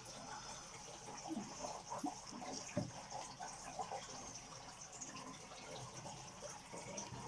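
Faint trickling and dripping water in a turtle tank, with a few small ticks, the clearest one a little under three seconds in.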